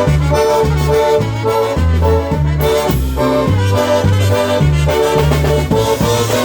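Live polka band playing the instrumental opening of a tune: accordion melody over a steady bass beat.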